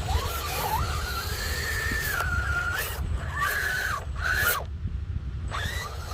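Small electric motor of a radio-controlled construction model whining under changing load, its pitch rising and falling in several stretches with short breaks, over a low rumble.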